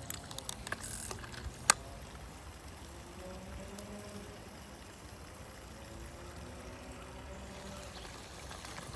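Creek water flowing steadily, with small handling clicks in the first second or so and one sharp click a little under two seconds in.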